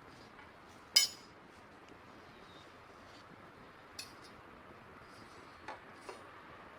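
Firewood burning in a campfire, with a steady faint hiss and sharp pops: one loud crack about a second in, a smaller one about four seconds in, and two faint ones near the end.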